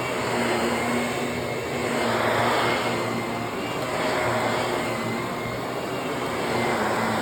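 Vacuum cleaner running steadily, a motor whine over the rush of air, swelling and easing in level every couple of seconds.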